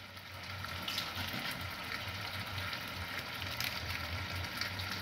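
Food frying in hot oil: a steady sizzle with scattered small crackles and pops.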